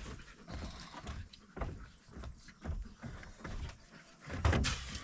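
Dogs shuffling and scrabbling about in a kennel: a string of irregular scuffs and light knocks, the loudest about four and a half seconds in.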